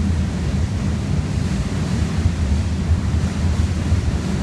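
Steady low rumble of a freight train's covered hopper cars rolling past on the rails below, the wheels running continuously without distinct clicks.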